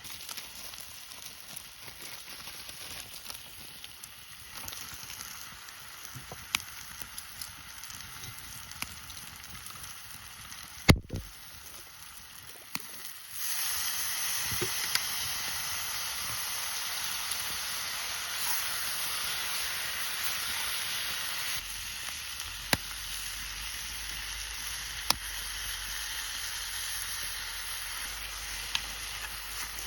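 Food frying in a pan over a campfire: scattered crackles, a single loud knock about eleven seconds in, then a sudden steady sizzle from about thirteen seconds on, with sharp pops through it.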